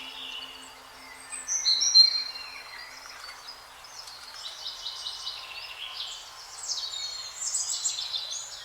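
Songbirds singing over a faint background hiss. Clear whistled notes come about one and a half seconds in, then fast chattering trills fill the second half.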